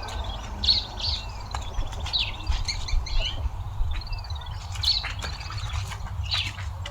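Birds chirping and calling over and over, short chirps and warbling phrases, with a steady low rumble underneath.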